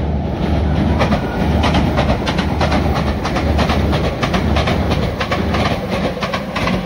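A Meitetsu electric train passing close by with a steady low rumble, its wheels clacking again and again over the rail joints.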